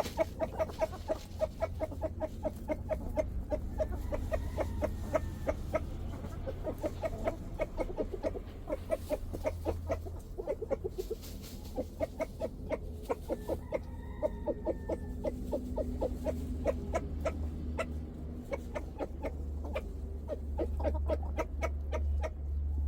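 Chickens clucking in quick short repeated clucks, several a second, as they feed on treats, over a steady low rumble.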